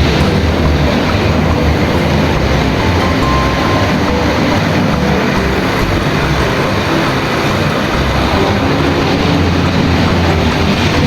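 A train running: a steady rumble with a rattling, clattering edge that holds without a break.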